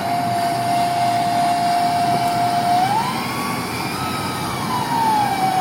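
Whine from a pickup truck's radio speakers, caused by an iTrip FM transmitter interfering with the radio. It holds a steady pitch, rises about three seconds in as the driver hits the gas, then slides back down.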